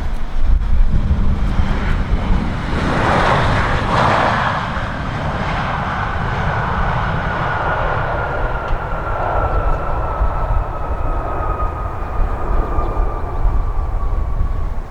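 Landing airliner's engines running with a whine that slowly falls in pitch, and a louder rush of engine noise about three seconds in lasting a second or two. Strong gusty wind rumbles on the microphone throughout.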